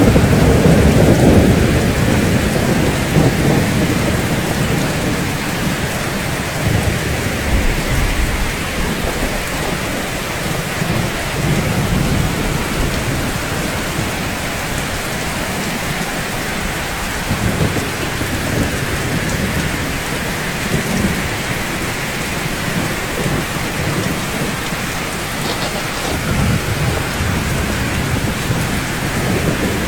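Steady rain falling on rooftops, with a low thunder rumble at the start that fades over the first few seconds, and fainter rumbles later on.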